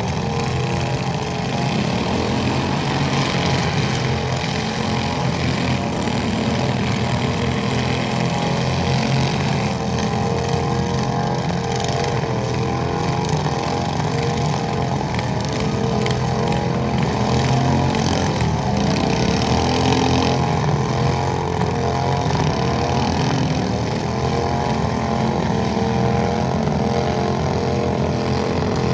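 Tractor engine running steadily and loudly for the whole stretch, with only small swells in level.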